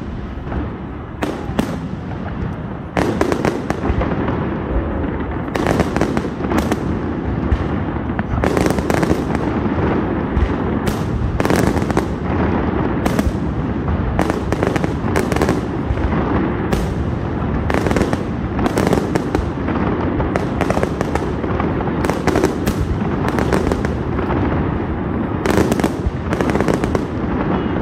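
Fireworks display: aerial shells bursting in an irregular, nearly unbroken barrage of sharp bangs over a continuous rumble, growing louder and denser about three seconds in.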